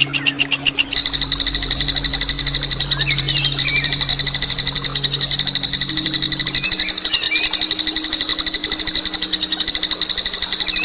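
A songbird's long, rapid rattling roll of evenly repeated high notes, the rough 'ngerol' kind of song played as masteran to tutor competition birds. The pattern shifts about a second in, then runs on unbroken.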